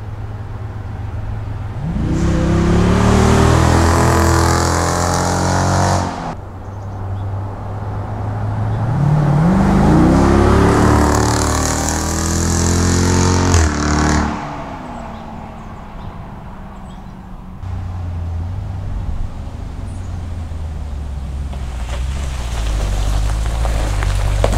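Jeep Grand Cherokee SRT's 6.4-litre HEMI V8 through a mid-muffler-delete X-pipe exhaust: a low idle rumble, then two hard accelerations with the pitch climbing through upshifts, each ending abruptly, then back to a low rumble that grows louder near the end.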